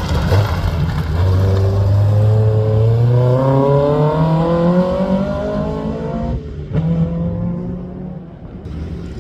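Rally car engine accelerating hard, its pitch climbing steadily for about five seconds. About six seconds in there is a sudden break, like a gear change, and then the engine pulls on at a lower pitch before easing off near the end.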